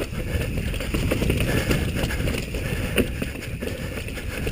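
Bike rattling and clattering over a rough, rocky trail, with many short knocks through a steady low rumble of wind and tyre noise on the microphone.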